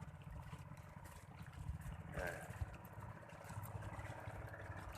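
Faint steady low rumble, with a brief faint voice about two seconds in.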